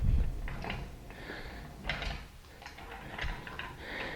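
Engine stand rolling on polyurethane caster wheels across a cement floor: a quiet low rumble that swells a few times as it is pushed, with light knocks.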